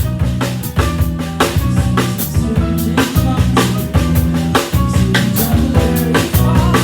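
Band playing an instrumental passage: a drum kit keeps time with bass drum, snare and rimshot hits over a walking bass line and sustained chords.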